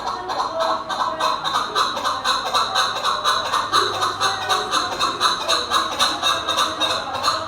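Chukar partridge calling in a rapid, steady series of repeated chuck notes, about four or five a second.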